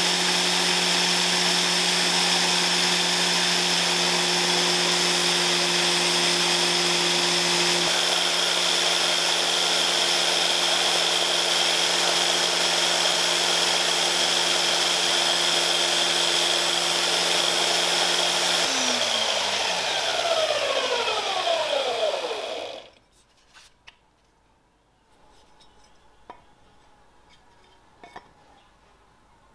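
Electric power tool motor running steadily with a loud hiss, then switched off about 19 seconds in and spinning down, its pitch falling over about four seconds. A few faint clicks and knocks follow.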